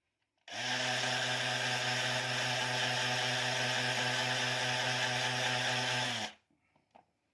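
A small electric motor runs at a steady, unchanging speed for about six seconds, switched on and off abruptly, like a handheld power tool.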